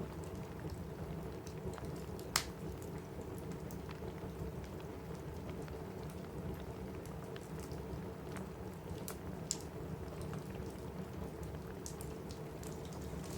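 Steady rain with a wood fire crackling in a fireplace: a constant low hiss of rain, sprinkled with small sharp pops and one louder snap a couple of seconds in.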